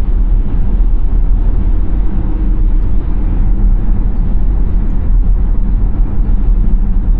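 A car driving at speed: a steady low rumble of road and engine noise, with no distinct events.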